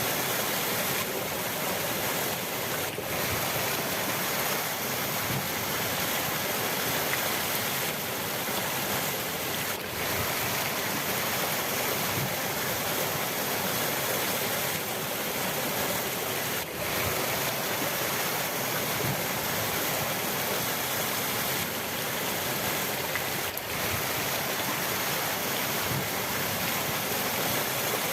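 Steady rushing water of a river, an even hiss-like roar, with a brief slight dip about every seven seconds.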